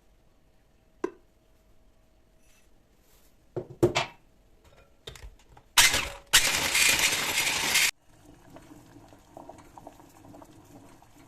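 Kitchen dishes being handled: a sharp clink about a second in and a few knocks midway, then a loud rushing noise for about two seconds that cuts off suddenly.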